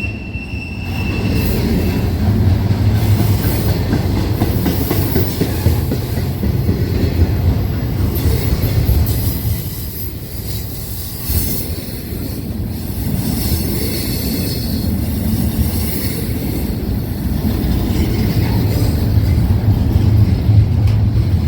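Freight train running past on the rails: a steady, loud rumble of locomotives and wheels, easing slightly about halfway through and building again toward the end.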